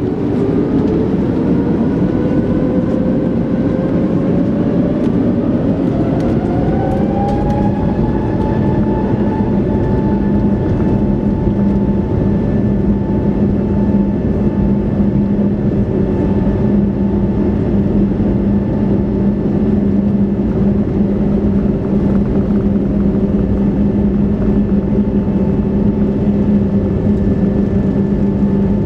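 Airbus A321neoLR's Pratt & Whitney PW1100G geared turbofan engines heard from inside the cabin, spooling up with a rising whine over the first several seconds, then holding a steady whine over a deep rumble: engines at takeoff thrust for departure.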